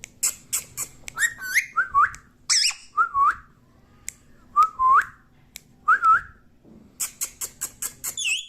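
Pet parrot whistling a series of short notes that each dip and then rise, about five in all, with quick sharp clicks between them, thickest at the start and near the end.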